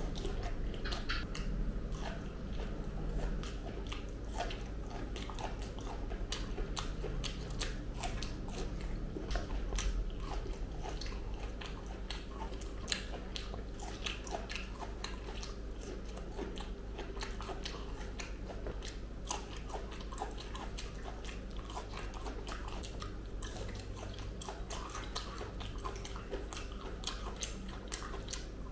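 Close-miked biting and chewing of ripe jackfruit pods, with many small mouth clicks throughout, over a steady low hum.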